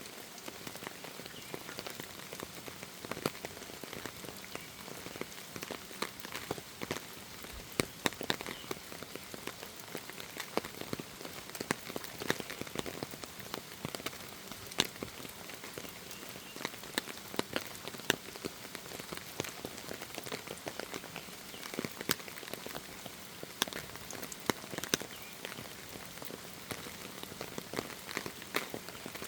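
Rain falling in a forest: a steady hiss of rainfall with many irregular, sharp drops ticking on nearby surfaces.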